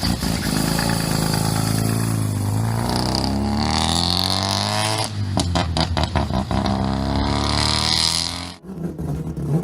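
Mazda RX-2's rotary engine revving, its pitch climbing and falling, with a brief rapid stutter about five seconds in.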